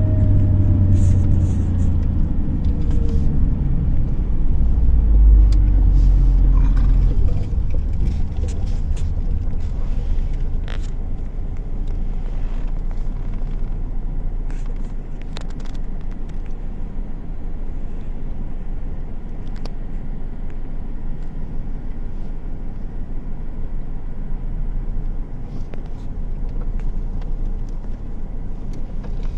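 Car driving on the road, its engine and tyre noise making a steady low rumble. In the first few seconds a whine falls in pitch as the car slows, and after about seven seconds the rumble settles lower and steadier.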